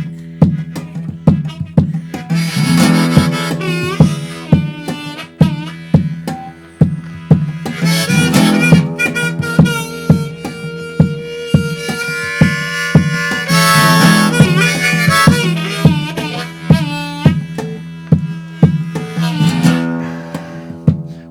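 Instrumental break of an acoustic song: a harmonica playing bending melodic phrases over strummed acoustic guitar, with a sharp percussive beat about twice a second.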